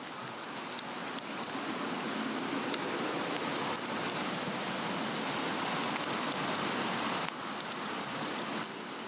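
Swedish torch, an upright log slotted with a cross, burning hard: a steady rushing hiss of flames with scattered small crackles. The fire is running hot enough to make the grate beneath it sag.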